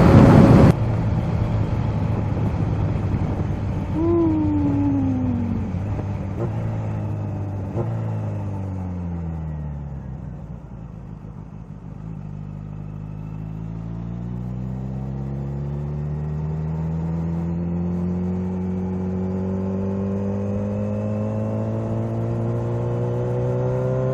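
Kawasaki Z H2 supercharged inline-four engine under way: loud engine and wind noise cut off less than a second in as the throttle closes, then the engine note falls as the bike slows, bottoms out about halfway through, and rises steadily again as it accelerates.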